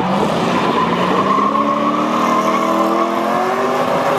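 Drift car engine revving hard on track, its pitch climbing and then held high, over a hiss of tyre noise on the wet surface.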